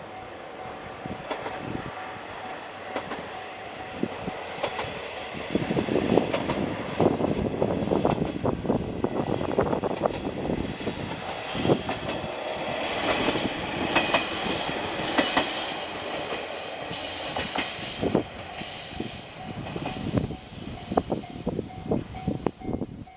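A Sanriku Railway diesel railcar passing, its wheels clacking over the rail joints from about five seconds in. There is a harsh, high, hissing noise for a few seconds in the middle, and the clacks thin out near the end.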